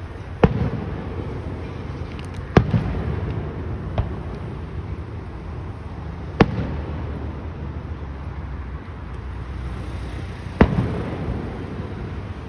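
Aerial fireworks shells bursting: five sharp booms at uneven intervals, each trailing off in a low rolling echo.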